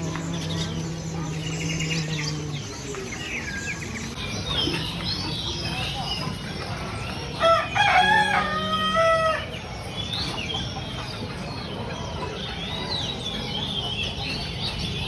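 A rooster crows once, loud and drawn out for about two seconds, starting about halfway through. Small caged songbirds chirp and twitter throughout.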